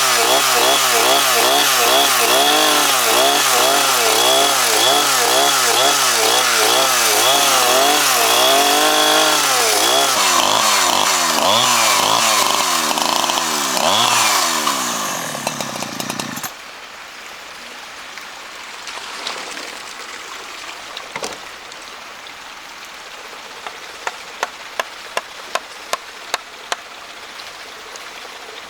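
Chainsaw cutting wood, the engine speed rising and falling as it works through the cut, then it cuts off suddenly a little over halfway through. Afterwards it is much quieter, with a run of about half a dozen light taps near the end.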